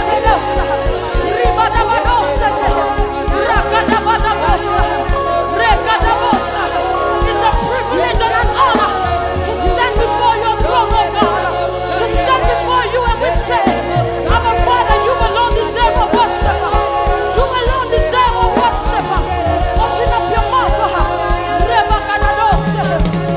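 Live gospel worship music: voices singing over a band with a bass line and a steady drum beat.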